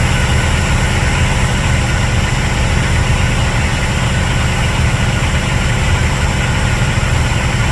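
Water truck's engine running steadily while the truck is driven, a dense low drone with no change in pitch or level.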